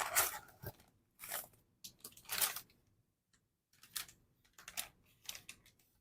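Packaging crinkling and rustling in short irregular bursts, with a brief pause in the middle, as a delivery bag is opened and the small tea-sample pouches inside are handled.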